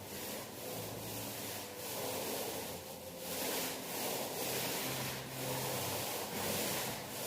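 Paint being spread on a wall, rubbing in repeated strokes that swell and fade about once a second.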